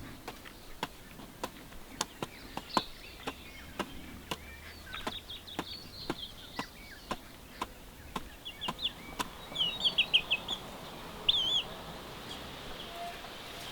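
Birds chirping in short high notes, louder and quicker about eight to eleven seconds in, over a run of sharp ticks about twice a second that stops after about nine seconds.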